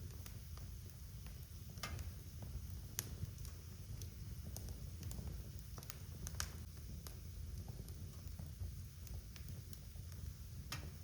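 Wood fire crackling in a fireplace: scattered sharp pops and snaps, a few louder ones about 2, 3, 6.5 and 11 seconds in, over a steady low rumble.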